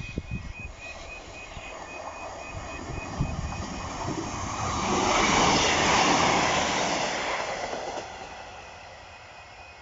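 A train passes through the level crossing: a broad rush of running train that builds, is loudest about five to seven seconds in, and then fades. For the first few seconds the crossing's warning alarm pulses rapidly alongside it.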